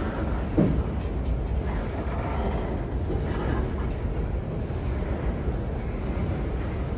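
Freight train rolling past, a steady low rumble with one sharp knock about half a second in.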